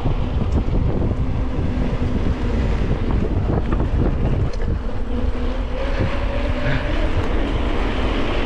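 Heavy wind buffeting the microphone of a bicycle ride downhill at speed, a steady low rushing rumble.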